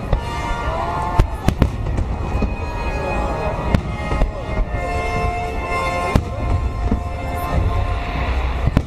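Fireworks bursting in a display: a string of sharp bangs at irregular intervals over a steady low rumble, with music playing underneath.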